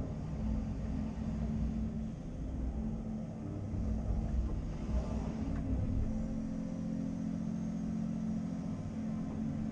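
Caterpillar 330 Next Generation excavator's diesel engine running steadily with a low rumble and a held hum.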